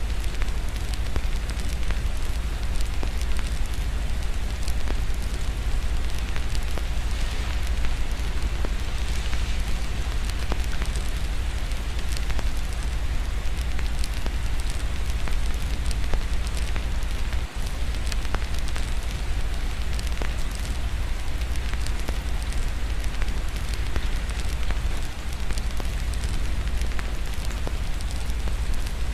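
Fireplace crackling with many small pops over a steady patter of rain, with a continuous deep rumble underneath. The sound drops out for a moment a little past halfway.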